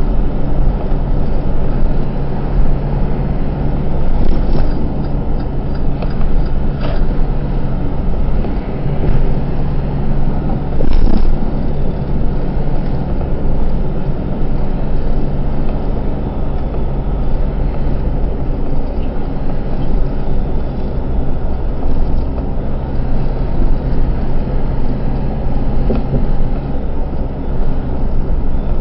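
Truck engine and road noise heard inside the cab while driving: a steady low drone, with a few brief clicks or rattles in the first half.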